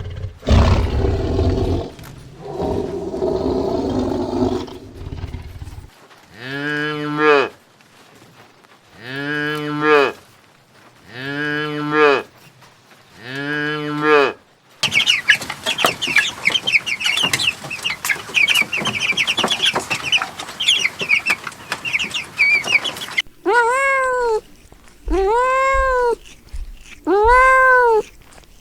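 A succession of different animal calls. First comes a low, rough calling, then four drawn-out calls that rise and fall, about two seconds apart. After that there are several seconds of dense high chirping, and near the end four higher calls that rise and fall.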